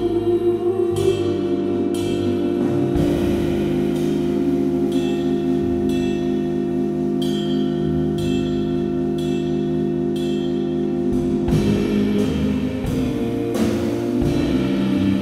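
Live band music with no singing: sustained ringing chords and a percussion hit about once a second.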